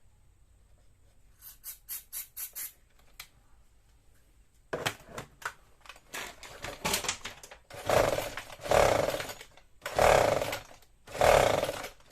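A quick run of short sounds, then repeated pulls on the recoil starter of a Husqvarna 122HD45 hedge trimmer's two-stroke engine, about four long strokes near the end, cranking it without it firing. It does not start even with starter fluid sprayed in.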